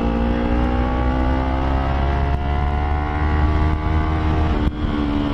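Motorcycle engine running under way, its pitch rising slowly and steadily as the bike gathers speed, with a short break about four and a half seconds in. Heavy wind rumble on the helmet microphone lies underneath.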